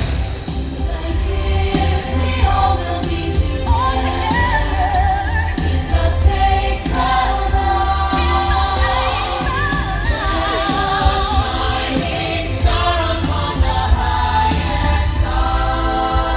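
Holiday show music with a choir singing long, wavering held notes and no clear words.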